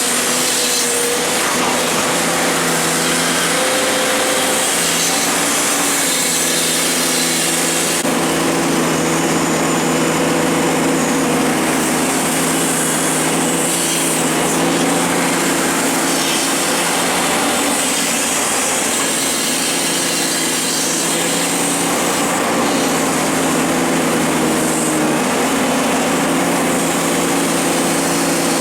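Excavator's diesel engine running steadily at working speed under constant noise, its pitch shifting only slightly now and then.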